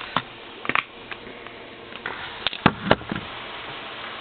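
Handling of plastic Blu-ray and DVD cases: a few sharp clicks and knocks, the loudest two close together a little under three seconds in, over a low steady hiss.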